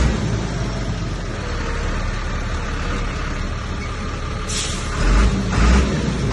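Heavy diesel earthmoving machinery running steadily with a low rumble. About four and a half seconds in there is a short hiss, then a few heavier low thumps.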